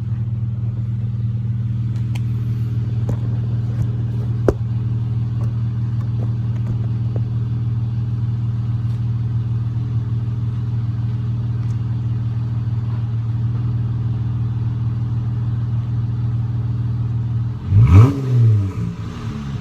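Straight-piped exhaust of a 2015 Dodge Charger SE's V6 idling steadily, then revved in two quick blips near the end.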